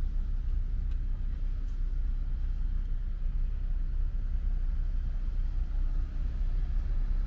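Steady low rumble of road traffic, with a faint even hiss over it.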